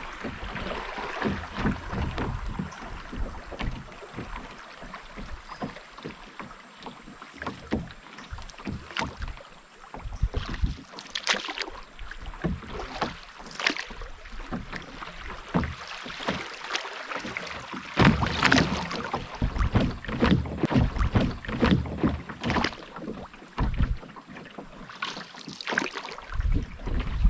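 Canoe paddling on a river: the paddle dips and splashes and water drips and knocks irregularly, the strokes busiest for several seconds past the middle.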